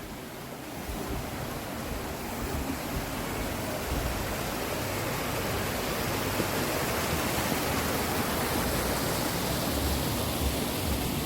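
Rushing water of a stream or cascade, a steady even rush that grows gradually louder.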